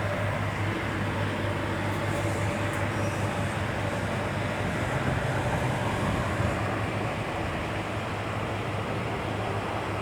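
Boom lift's engine running steadily, a constant low hum under an even noisy rush.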